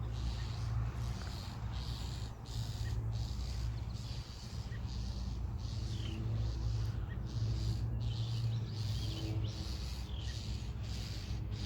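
Agitated birds calling around a tree where a weasel is raiding a nest: alarm calls at a predator. The calls are faint, over a steady low rumble.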